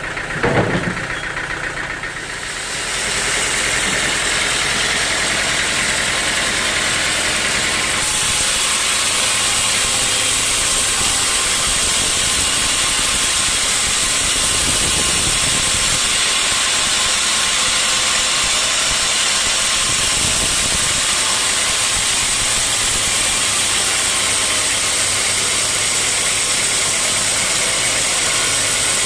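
Sawmill saw running steadily through a log, a loud even noise with a hiss, setting in about two seconds after a single knock near the start.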